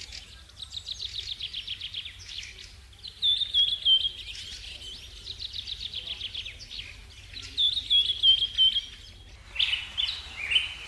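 Birdsong: a short run of high notes stepping down in pitch, repeated about every four seconds, with fast trills in between. Near the end a different, rougher call starts.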